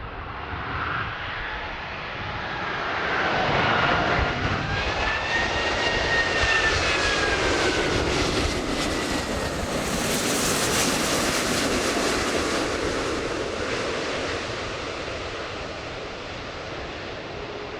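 Jet airliner passing low on final approach to land, its engines' rushing noise swelling to a peak mid-way and then fading. A whining tone from the engines bends up and then drops in pitch as the plane passes.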